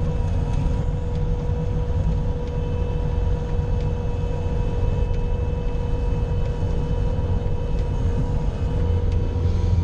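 Bobcat skid steer's diesel engine running steadily under load while pushing snow with a plow blade, with a steady whine held over the engine's low drone.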